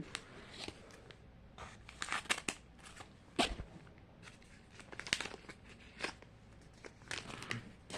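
Small plastic packaging of a Mini Brands pack being handled and opened: scattered crinkles and clicks, the sharpest about three and a half seconds in.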